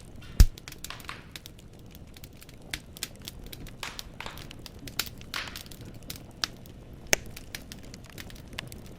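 Firewood burning in a fireplace, crackling with scattered sharp pops and a few brief hisses. A loud pop comes about half a second in.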